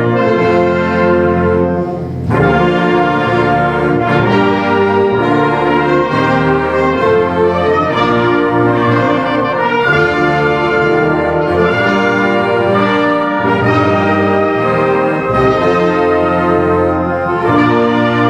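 Concert band playing, with trumpets and trombones to the fore over sustained chords. The band drops back briefly about two seconds in, then comes in again together at full strength.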